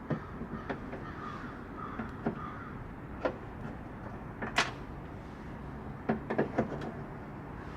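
Scattered sharp clicks and knocks of hand work on a car's body trim and bolts, the loudest about four and a half seconds in, followed by a quick run of taps a little after six seconds.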